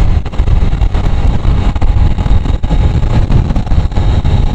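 Wind rushing over the microphone, mixed with the running noise of a 125cc motorcycle at highway speed: a loud, uneven low rumble.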